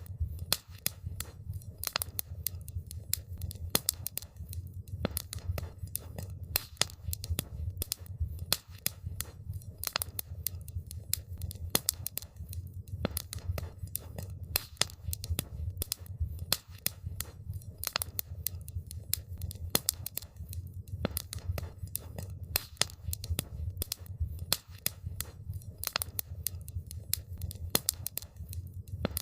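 Campfire crackling: dense, irregular sharp pops and snaps, several a second, over a steady low rumble.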